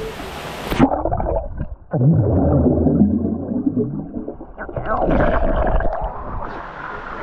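Muffled underwater rumble and gurgling of churning pool water beneath a waterfall, heard through a submerged action camera, all the high sound cut off. About a second in it goes under, and past the halfway mark the high sounds partly return.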